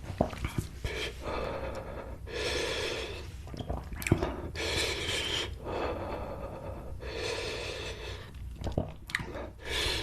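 A person breathing hard through the mouth after eating an extremely spicy chip: long hissing breaths about every two to three seconds, with short mouth clicks and smacks between them.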